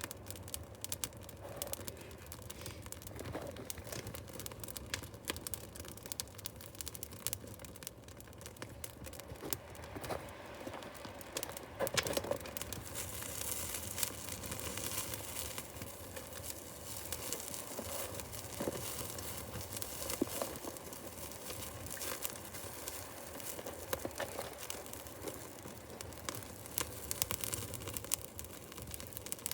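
Small fire of paper and birch wood catching and crackling, with a steady run of small snaps and pops.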